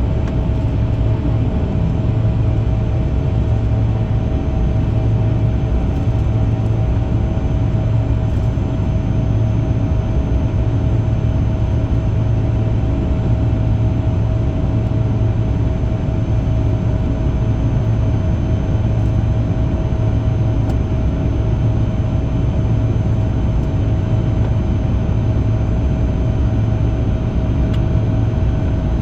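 Bombardier CRJ-200's twin GE CF34 turbofan engines running steadily: a loud low rumble with a steady whine on top, with no rise or fall in pitch.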